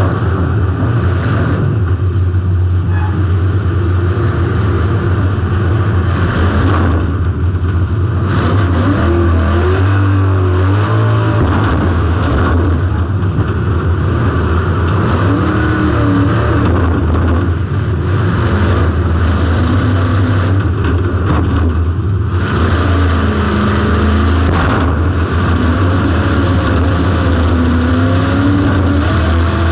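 A car's engine, heard from inside the car, running hard and revving up and down with a constant deep rumble. It eases off briefly several times.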